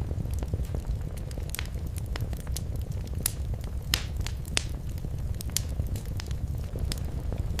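Fireplace fire burning with a steady low rumble and irregular sharp crackles and pops, several a second.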